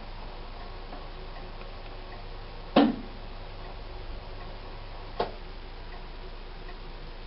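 Sharp ES-TX800 washing machine running with a steady low hum, with two sharp knocks from the machine, a loud one about three seconds in and a smaller one about two seconds later.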